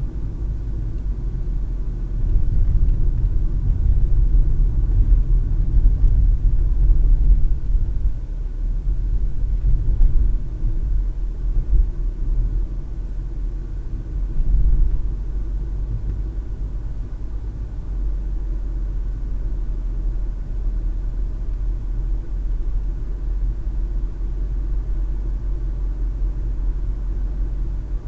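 Low, steady road and engine rumble of a moving car, heard from a dash cam inside the cabin. It grows louder and rougher from about two seconds in until about halfway through, then settles to an even level.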